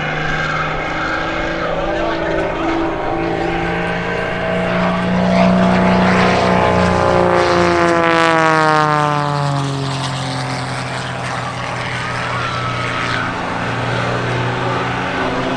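Wolf Pitts Pro aerobatic biplane's piston engine and propeller running hard, growing louder and then dropping sharply in pitch as it flies past about eight seconds in. It carries on at the lower pitch afterwards.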